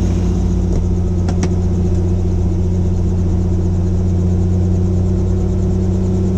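Helicopter in flight: a steady drone of rotor and engine, with a strong low hum and a fainter high whine. A short faint click comes about a second and a half in.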